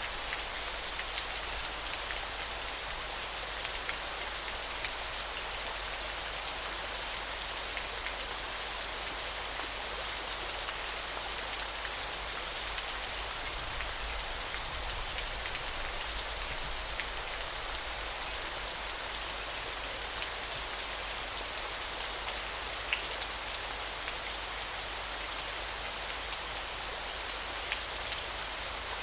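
Steady rushing water noise of a flowing river. Three short high-pitched trills sound in the first eight seconds, and a louder high-pitched buzzing starts about 21 seconds in.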